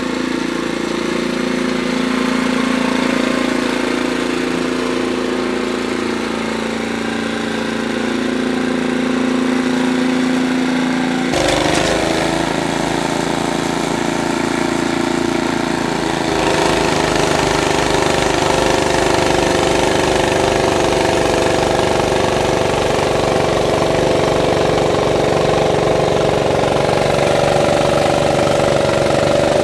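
An engine running steadily. Its note changes suddenly about eleven seconds in and again about sixteen seconds in, after which a regular low pulsing can be heard.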